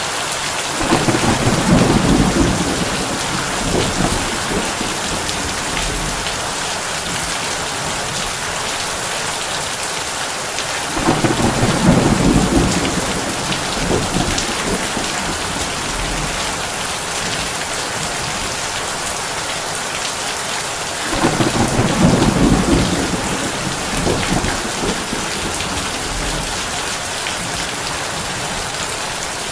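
Heavy rain drumming steadily on a tin roof, with three rolls of thunder rumbling about ten seconds apart.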